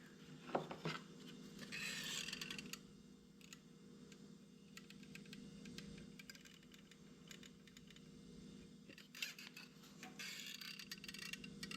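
Faint scattered clicks and a few short scratchy rustles from handling and cutting small model-building pieces, over a steady low hum.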